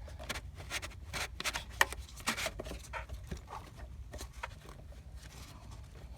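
Fuel filter cartridge being worked out of its housing in a 6.7L diesel engine bay: scattered light clicks, knocks and rubbing from handling, busiest in the first half, over a low steady hum.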